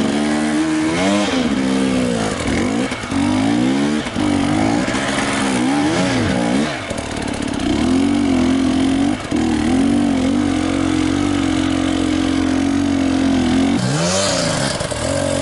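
Enduro motorcycle engine revving up and down repeatedly, then held at steady high revs for about seven seconds, dropping and revving again near the end.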